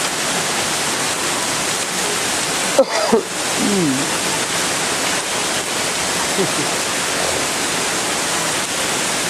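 Heavy downpour of rain and hail, a steady hiss of water pouring on the ground and surfaces, with a brief knock just before three seconds in.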